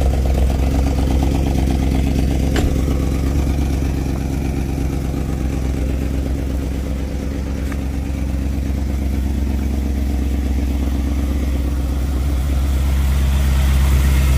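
BMW E53 X5 4.4i's V8 engine idling steadily after a jump start, its level easing slightly in the middle and building again near the end.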